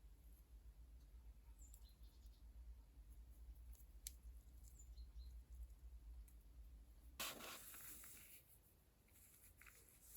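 Near silence: faint room hum, with a single light click about four seconds in and a brief soft rustle a little after seven seconds.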